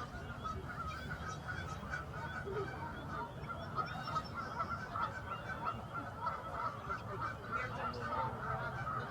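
A large flock of wild geese calling continuously, a dense chorus of many overlapping honks with no break, over a low background rumble.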